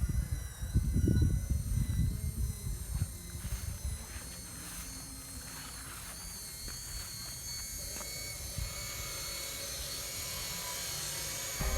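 Whine of a remote-control construction truck's small electric motors and gearboxes, with low rumbling and knocks over the first few seconds, then a steadier whine.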